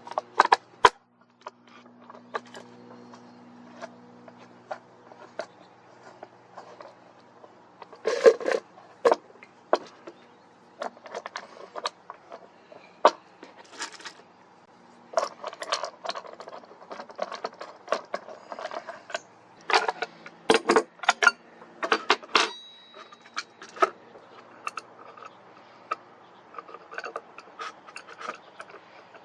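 Irregular clicks, taps and short scrapes of a plastic bottle and small hard objects being handled and worked by hand.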